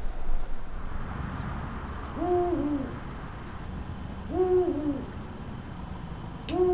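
An owl hooting: three low two-note hoots, evenly spaced about two seconds apart.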